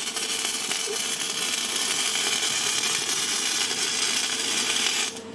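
Electric arc welding on steel: a steady crackling hiss that cuts off abruptly about five seconds in as the arc is stopped.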